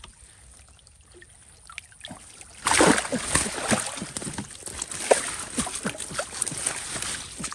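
Splashing and sloshing in shallow water, starting suddenly about two and a half seconds in and going on as a rapid, irregular flurry of splashes: a big fish thrashing as it is grabbed by hand.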